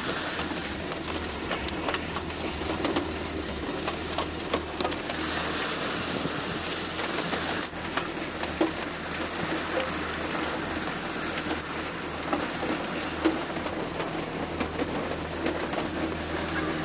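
Heavy rain falling in a steady, dense hiss, with scattered sharp ticks of drops striking and a low steady hum underneath.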